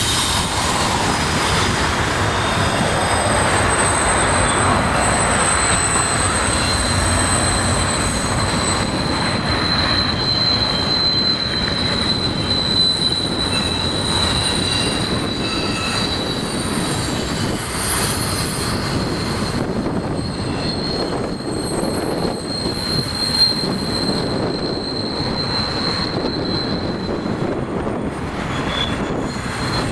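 Freight train rolling past, its cars' wheels rumbling on the rails with a steady high-pitched wheel squeal.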